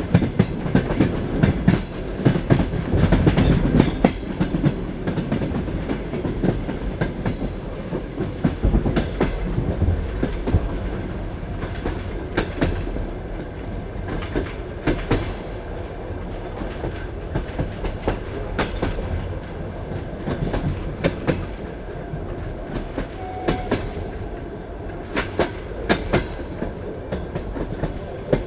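Passenger train carriage running along the line: a steady rumble with irregular clicks and knocks of the wheels over the rail joints, a little louder in the first few seconds.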